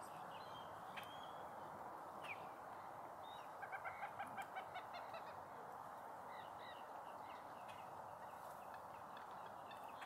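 Wetland birds calling: a quick run of short notes about three and a half seconds in and a shorter run near six and a half seconds, with a few single short calls, over a steady faint hiss.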